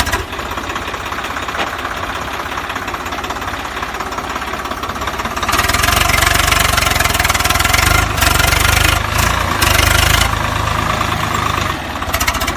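Engine running steadily, stepping louder about five and a half seconds in and dropping back near the end.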